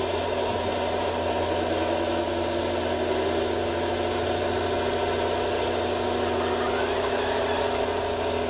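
Radio-controlled model construction machine running: a steady mechanical hum with several held tones.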